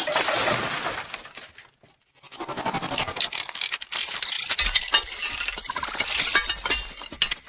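Glass shattering, with clinking shards, dying away about two seconds in; then a longer second run of shattering and clinking.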